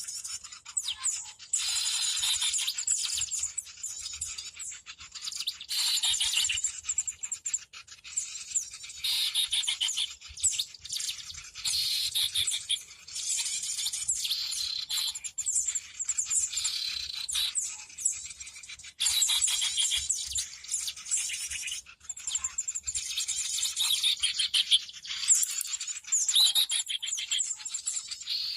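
Busy chattering of many small birds, dense high chirps and trills in bursts a second or two long with brief dips between them. This is a bird-lure (suara pikat) recording of a noisy flock.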